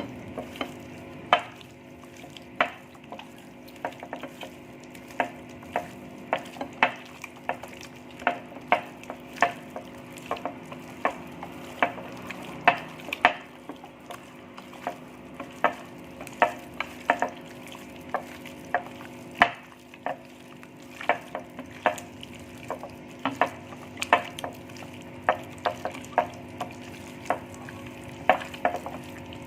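Chicken pieces being mixed and rubbed into a wet spice marinade in a bowl, with irregular clicks and knocks about once or twice a second, over a steady low hum.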